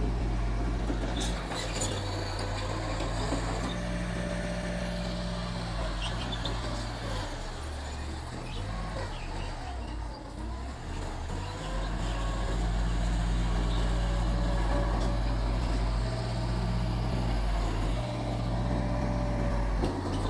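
Mitsubishi bulldozer's diesel engine running under working load, with a faint steady whine above it. The engine note eases off for a few seconds in the middle, then picks up again and holds strong. A few sharp clanks come early on.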